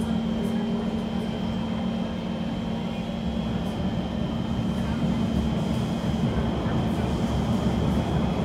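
Kawasaki C151 electric multiple unit heard on board: a steady low hum with a faint higher tone over a broad running rumble that grows a little louder about five seconds in.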